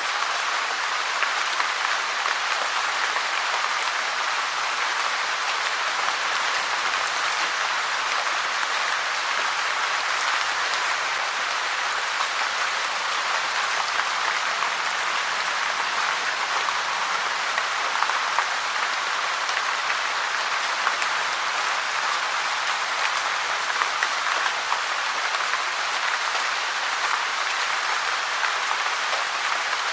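Steady rain falling, a dense even patter of drops with no breaks or changes.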